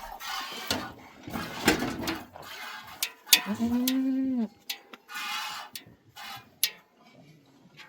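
A farm animal in the pen gives a single drawn-out call of about a second, a little past the middle, rising then falling in pitch. Scattered sharp knocks and short scraping noises from the pen work come before and after it.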